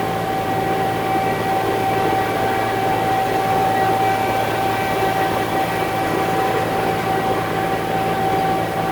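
Concrete mixer truck's diesel engine running steadily while driving, with a steady high-pitched whine over the engine noise.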